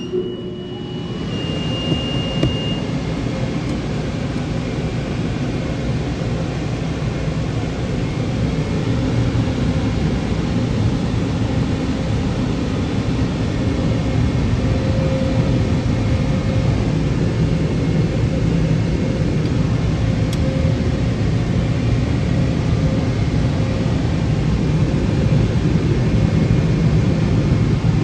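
Car wash equipment starting suddenly and running as a steady, loud rush of noise that grows a little louder, with a brief high beep near the start.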